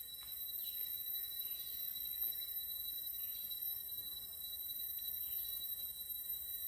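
Rainforest insects, cicadas or crickets, keeping up a steady high drone: one thin continuous tone with a higher hiss above it. Faint short falling calls recur about every second.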